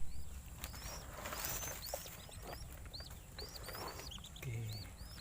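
Lesser whistling duck (belibis) ducklings peeping: a rapid, overlapping series of short, high chirps from several chicks.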